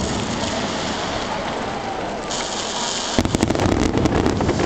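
Aerial firework shells bursting, with a continuous rumbling crackle. A rapid string of sharp pops comes about three seconds in.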